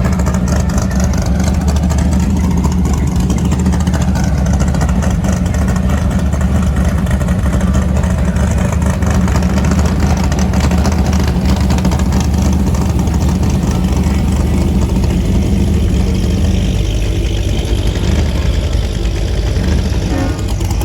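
A car engine running steadily with a deep, even rumble, its low note shifting about three-quarters of the way through.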